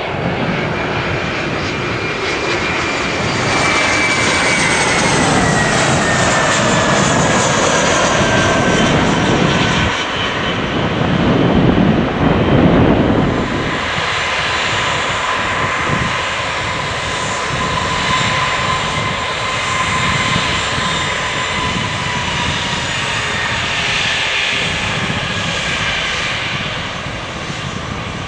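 Boeing 777 jet engines passing close by: a loud engine whine that falls in pitch as the aircraft goes past, a deep rumble at its loudest about twelve seconds in, then a steadier whine that slowly fades.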